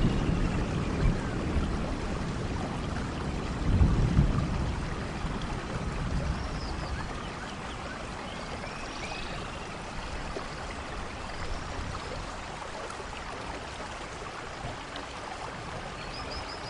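Steady rainforest rain, an even hiss of falling water, with low rumbles near the start and about four seconds in, then settling quieter. Faint high chirps come through now and then.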